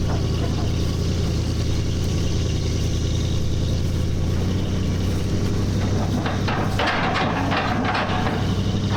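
An engine running steadily, its note shifting slightly about four seconds in, with a burst of clattering from about six to eight seconds in.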